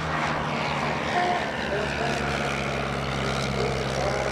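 Propeller airplane's piston engine running with a steady drone, with faint voices in the background.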